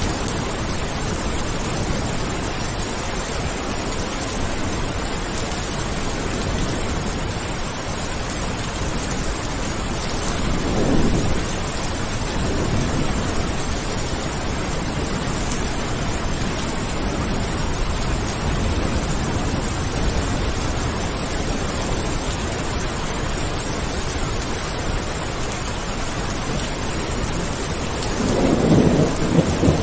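Steady heavy rain hissing, with distant thunder rumbling twice: once about a third of the way in and again, louder, near the end.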